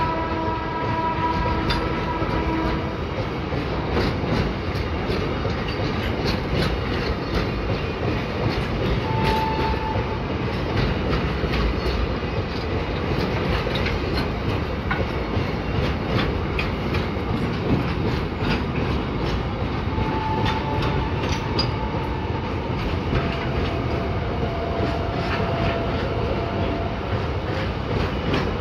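Container freight train wagons rolling steadily past close by: a continuous rumble with the clickety-clack of wheels over rail joints and a few brief squealing tones. A held horn note stops about three seconds in.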